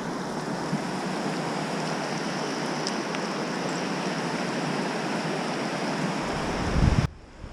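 Rushing whitewater of a fast river: a steady, even roar of water. Near the end wind buffets the microphone with a low rumble, then the sound drops off suddenly about seven seconds in.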